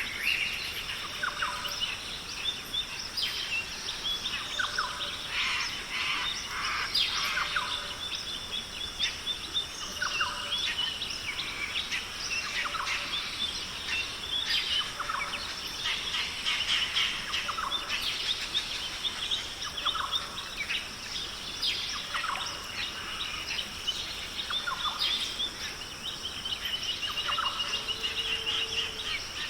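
Many birds calling together, a busy mix of short chirps, whistles and trills, over a steady high insect hum.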